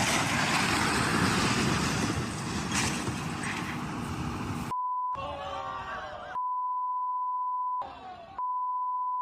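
Loud road and vehicle noise, then a steady high-pitched beep tone that cuts in and out three times, broken by short snatches of other sound.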